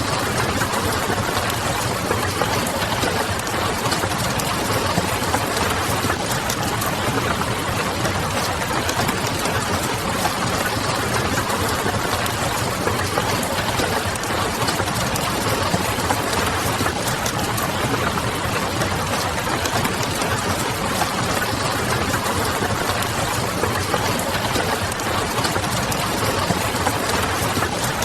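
Steady blend of a wood fire crackling and rain pattering, with a low hum underneath.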